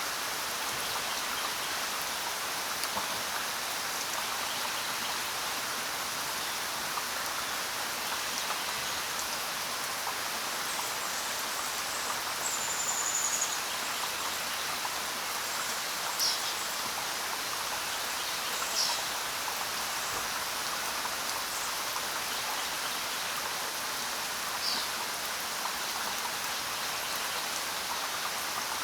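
Steady rain falling, with a handful of short, high bird calls scattered through it, one of them a longer whistled note.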